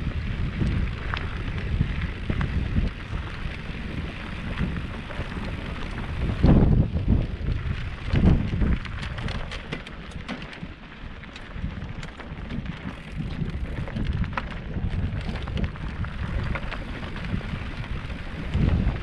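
Wind buffeting the microphone, a gusty low rumble that swells twice about six and a half and eight seconds in and again near the end, with scattered faint clicks.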